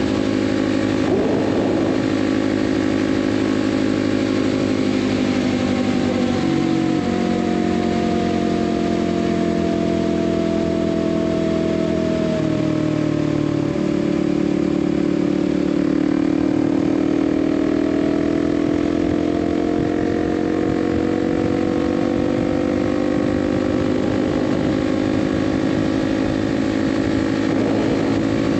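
Kawasaki KLX 300's single-cylinder four-stroke engine running at highway speed under way. The engine note sinks gradually through the middle as the bike slows, with a couple of sudden changes in tone, then climbs again as it speeds back up.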